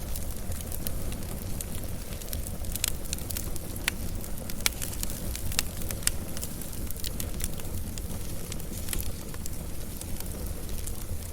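Wood fire burning: a steady low rumble of flames with frequent, irregular crackles and sharp pops.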